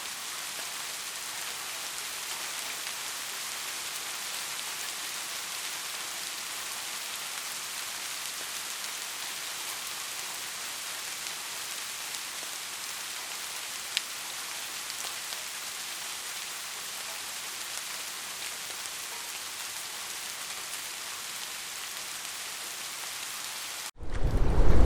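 Steady rain falling, an even hiss with scattered drop ticks and one sharper tick about halfway through. Just before the end it cuts off abruptly and a much louder, deep rushing rumble begins.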